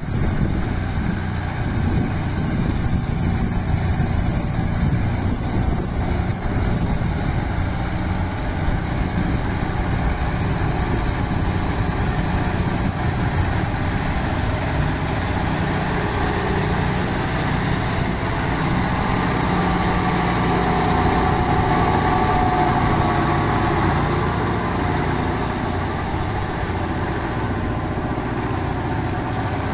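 Kubota 4x4 50 hp tractor's diesel engine running steadily, growing a little louder with a higher whine for a few seconds in the latter half.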